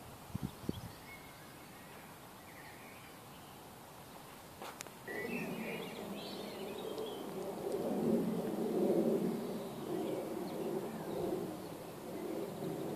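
Birds chirping here and there over a background of outdoor noise, with a few handling clicks near the start. A low, uneven rumble comes in about five seconds in and grows louder.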